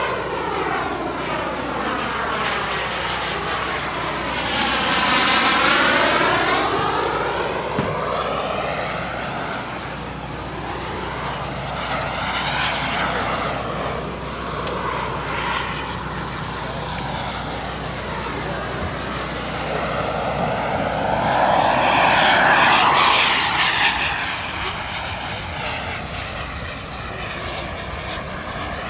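KingTech K-235 gas turbine of a large RC jet running in flight, making passes overhead. It swells loudest about five seconds in and again about twenty-two seconds in.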